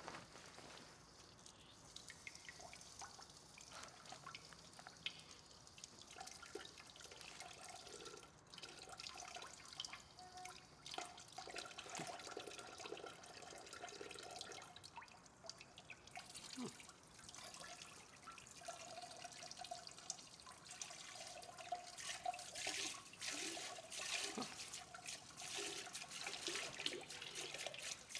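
Faint trickling and dripping of water in a small bathroom, uneven and coming and going.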